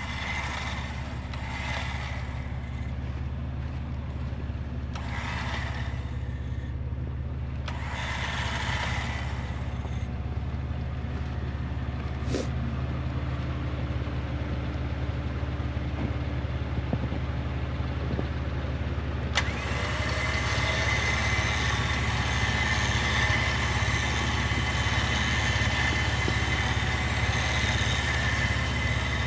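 A vehicle engine running steadily. About two-thirds of the way in there is a sharp click, after which a steady higher whir joins the engine.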